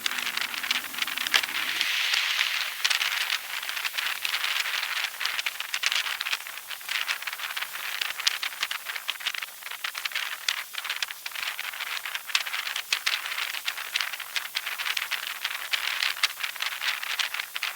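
Dense crackling and rattling noise: many small irregular clicks over a steady hiss that continues throughout.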